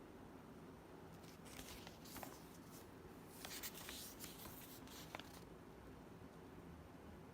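Near silence: quiet room tone, with faint rustling and a few small clicks between about one and five and a half seconds in.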